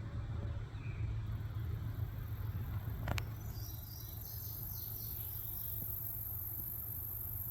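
Insects trilling in a steady, very high-pitched tone that sets in about a second in, over a steady low rumble, with a few short chirps in the middle.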